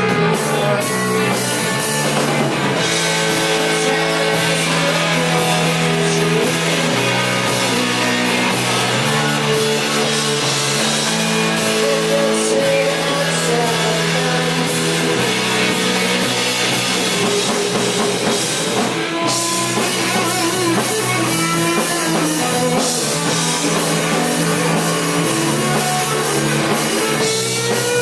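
Rock band playing an instrumental passage: guitar over a drum kit, steady and loud, with no singing.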